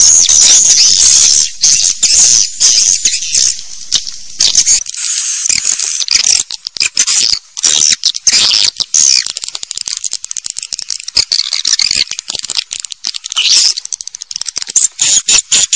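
A flock of swiftlets twittering in dense, rapid high-pitched chirps and trills, the kind of recorded call played to draw swiftlets into a nesting house. The chirping thins out with brief gaps in the middle stretch and grows dense again near the end.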